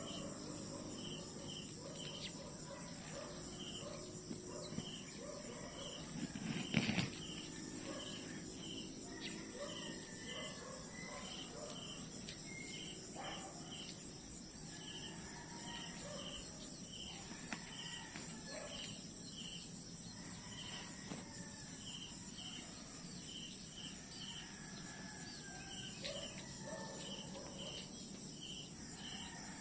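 Insects chirping in a night-time style chorus: a continuous high buzz with short chirps repeating about twice a second. One brief louder thump about seven seconds in.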